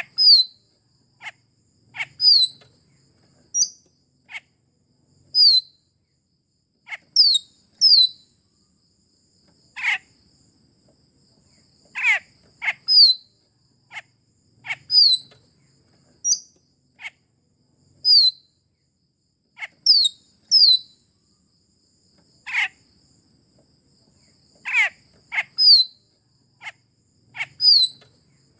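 Sulawesi myna calls: short, sharp notes that slide steeply downward in pitch, repeated every second or two in irregular ones and twos. A steady high-pitched insect-like whine runs underneath.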